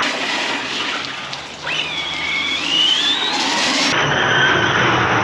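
Arrma Big Rock 6S RC truck's brushless motor whining as it drives through deep puddle water, with a steady hiss of water spray. Partway through, the whine dips in pitch and then climbs as the truck accelerates.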